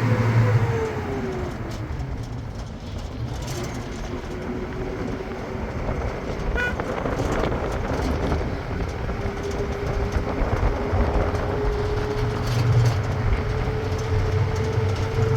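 A motor vehicle running with a low rumble and a steady whine. The whine drops in pitch over the first couple of seconds, then climbs slowly, as the vehicle slows and then gathers speed again.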